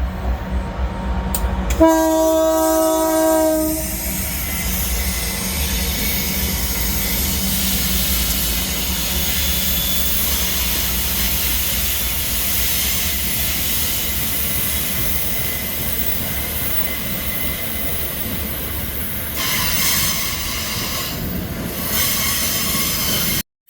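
A diesel freight locomotive sounds one horn blast of about two seconds. The train's wagons then roll past in a loud, steady rush of wheel and rail noise.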